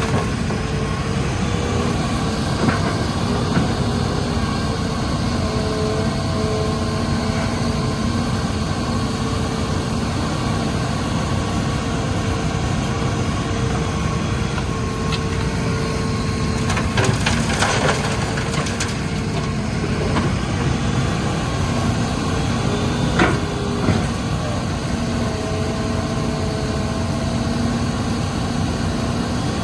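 Hitachi Zaxis 210 excavator's diesel engine running steadily under working load, with humming tones that step up and down in pitch as it works. There are a few short knocks about seventeen and twenty-three seconds in.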